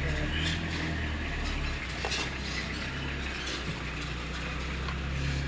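A steady low mechanical hum with a hiss over it and a few brief rattles.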